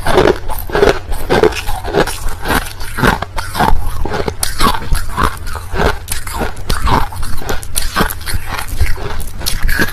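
A person biting and chewing crushed ice, with rapid, irregular crunches about three a second.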